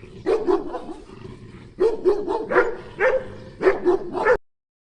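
Dog barking repeatedly in short clusters of barks, cutting off abruptly shortly before the end.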